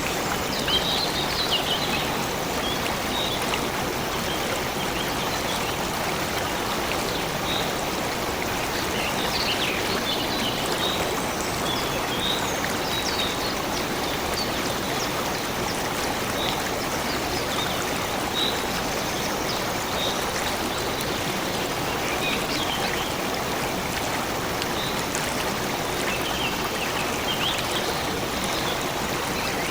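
Steady running water of a stream, with small birds chirping in short, scattered calls over it.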